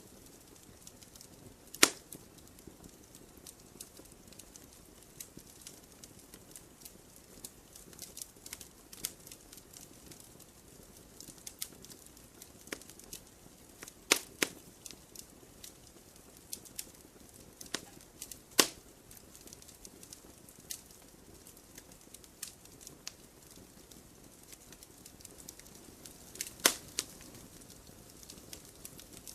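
Wood campfire burning with a soft steady hiss and irregular crackles and pops. The sharpest pops come about two seconds in, around the middle, and near the end.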